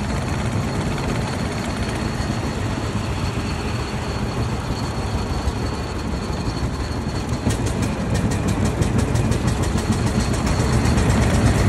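Single-cylinder engine of a 1903 Cadillac running steadily as the car moves along slowly in traffic, with road noise. About two-thirds of the way through, a rapid run of light ticks, several a second, lasts a couple of seconds.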